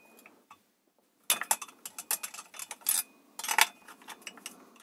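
Hand tools and small metal chainsaw parts clicking and clinking while the cylinder screws are undone, a quick run of sharp clicks with short metallic rings.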